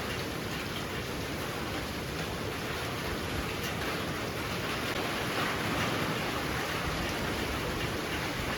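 Heavy rain falling steadily, a dense hiss of drops that swells a little about two-thirds of the way through.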